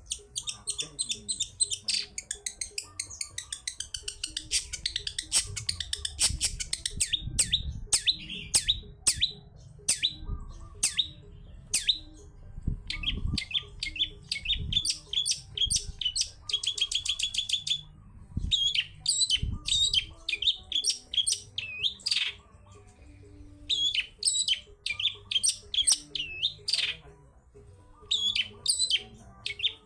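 Long-tailed shrike (cendet) singing a fast, varied song of sharp chips, buzzy notes and rapid trills, with short pauses now and then.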